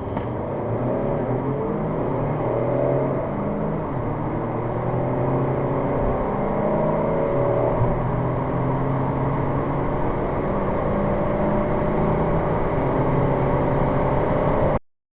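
Car engine accelerating hard under full throttle, its pitch climbing and dropping back at gear changes; the sound cuts off abruptly near the end.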